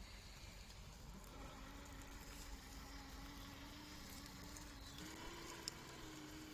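Faint, steady whine of the Traxxas TRX6 Hauler's electric drive motor as the RC truck crawls along. It starts about a second in and rises slightly in pitch about five seconds in. There is one sharp click near the end.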